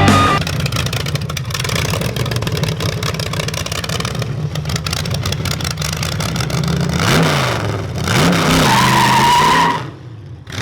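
Car engine running steadily, revved up and back down twice near the end, with a brief high steady squeal just before it cuts off.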